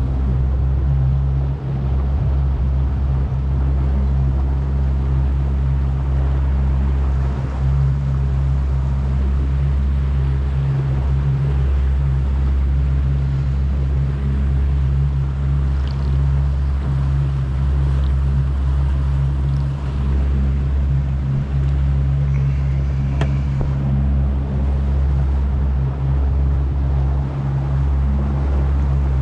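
Boat motor running steadily on the river, a constant low hum with water and wind noise over it.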